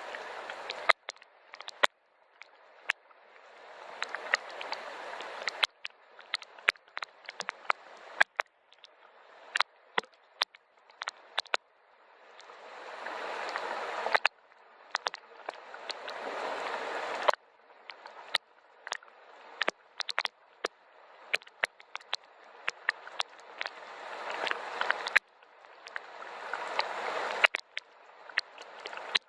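Rain: a hiss of rainfall that builds up for a few seconds at a time and cuts off abruptly, several times over, with many sharp, separate drops tapping on a surface throughout.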